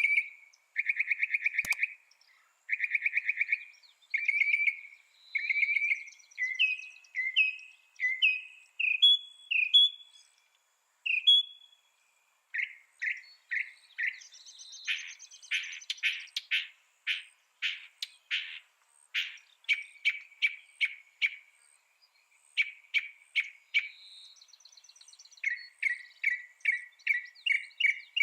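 A mockingbird singing a string of varied phrases, each repeated several times before it switches: buzzy trills, then short up-and-down whistled notes, then sharp chips, and near the end a fast run of repeated notes.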